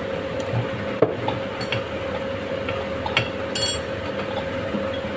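Metal spoon clinking against a metal cooking vessel a few times, with a sharp knock about a second in and a short ringing clatter about three and a half seconds in, over a steady background hum.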